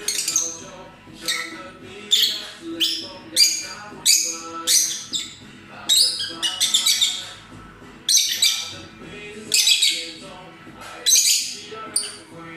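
Peach-faced lovebirds calling: a run of sharp, high chirps and squawks, about one or two a second, each starting abruptly.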